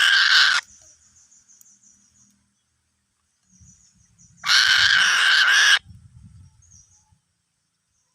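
Eagle giving two harsh, screeching calls, each just over a second long: one cut short just after the start, the other about four and a half seconds in.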